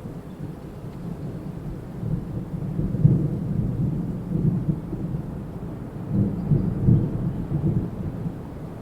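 Wind gusting through trees, a low rumbling rush that swells twice, around a third of the way in and again about two-thirds through.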